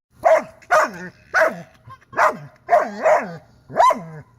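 Dog barking repeatedly, about seven barks in four seconds, each bark dropping in pitch.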